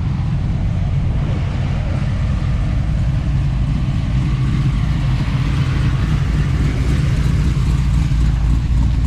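Car engine running, a steady low rumble that grows slightly louder in the second half.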